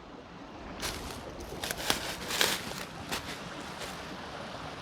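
A creek running steadily over rocks, with a handful of short, sharp noises close by during the first few seconds.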